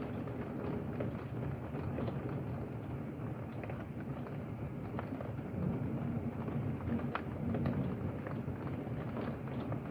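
Heavy thunderstorm rain heard from indoors through a closed window: a steady muffled hiss with scattered small ticks, under a low rumble of thunder that swells a little past the middle.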